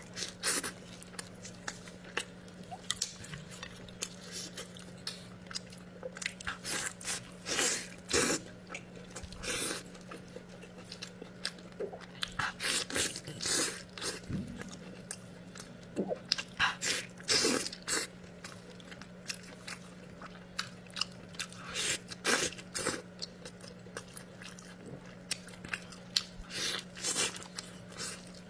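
Close-miked chewing and biting: a quick, irregular run of mouth clicks and smacks, with a steady low hum underneath.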